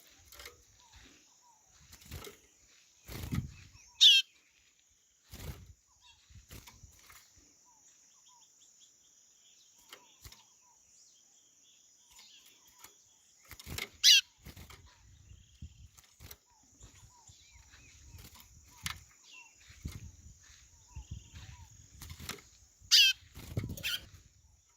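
White-bellied seedeater (chorão) calling: three short, loud calls, each a quick trill falling in pitch, spaced about ten seconds apart. Under them runs a steady high hiss, with a few low thumps.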